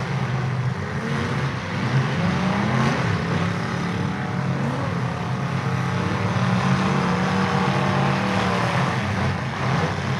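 Several demolition derby cars' engines running and revving at once, their pitch rising and falling as the cars push around the track.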